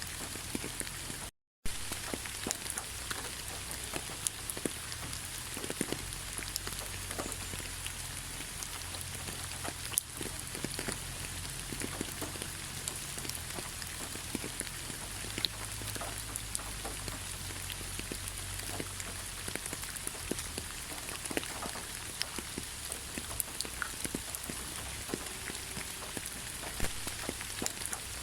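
Steady rain falling in a forest, with many separate drops striking close by. The sound drops out completely for a split second just over a second in.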